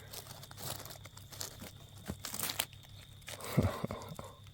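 Crackling, tearing rustles of hedgehog mushrooms being picked by hand from the forest-floor litter, with a louder burst about three and a half seconds in.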